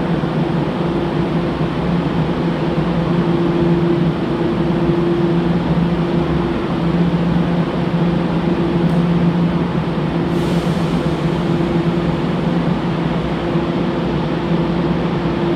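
Echizen Railway electric train: a steady rumbling noise with a steady low hum under it.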